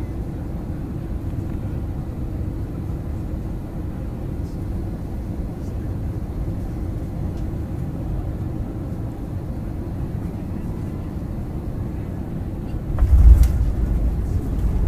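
Steady low rumble of an airliner's engines and airflow heard inside the cabin on landing; about 13 s in, a thump and a sudden, much louder low rumble, the sound of the wheels meeting the runway.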